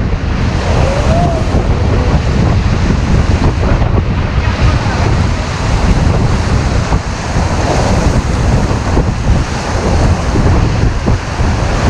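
Fast-flowing Ganga river water rushing and splashing around an inflatable raft, with strong wind buffeting the microphone.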